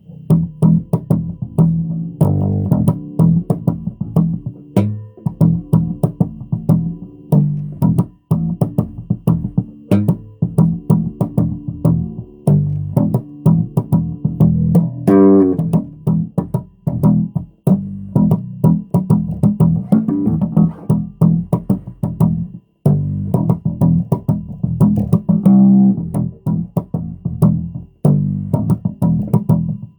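Amplified bass guitar played solo, a continuous run of plucked notes, with short breaks about 8 and 23 seconds in.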